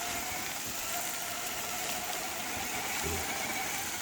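Electric motor and gear drive of a radio-controlled rock crawler whining steadily while it crawls, over an even hiss of rain. A short low knock comes about three seconds in.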